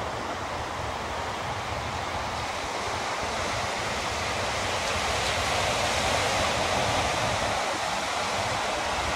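Sea waves and wind, with wind buffeting the microphone: a steady rushing that swells a little around the middle.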